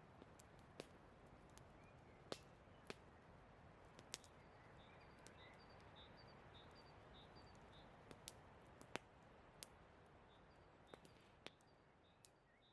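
Wood campfire crackling: irregular sharp pops and snaps over a soft steady hiss, with faint high chirps repeating in the background. The sound fades away toward the end.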